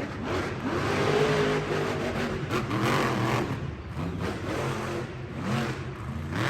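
Monster truck engine revving hard, its pitch climbing and dropping several times.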